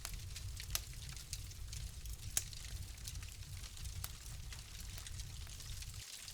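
Wood fire crackling in a fireplace: a dense run of small snaps and pops over a low rumble, with two sharper pops about a second in and about two and a half seconds in.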